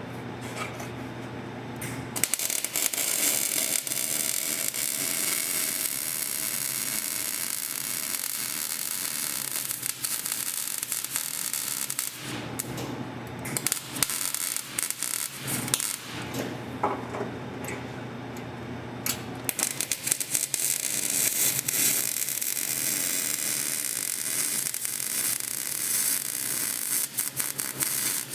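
Welding arc crackling and sizzling in long runs, with a break of a few seconds near the middle, as an exhaust pipe is welded to a catalytic converter.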